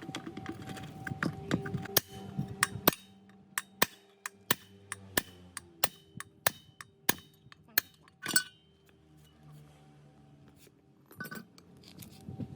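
Metal parts clinking and tapping: a run of about fifteen sharp, separate clinks spaced irregularly from about two to eight seconds in, and another short clatter near the end. Faint background music plays underneath.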